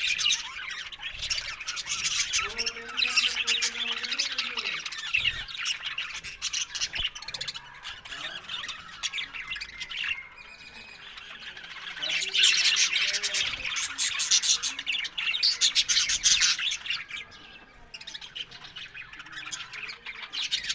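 A colony of budgerigars chattering and squawking together in an aviary, a dense run of overlapping chirps, warbles and squawks that thins out briefly about halfway through and again near the end.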